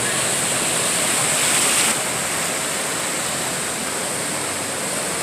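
Steady rush of water from heavy rain and floodwater, a little louder for the first two seconds and then easing slightly.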